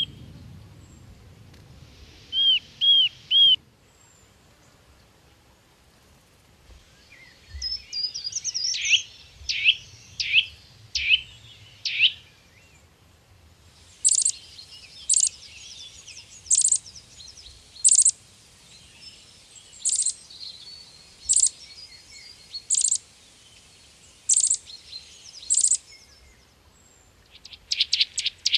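Parrots calling: three short arched whistles, then a run of sweeping calls, then sharp calls repeated about every second and a half over softer chatter.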